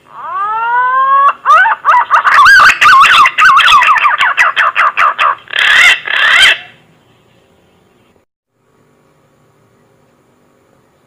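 Punai green pigeon song: a long rising whistle, then a rapid run of warbling, pitch-bending whistled notes that ends with two strong notes about six seconds in, then stops.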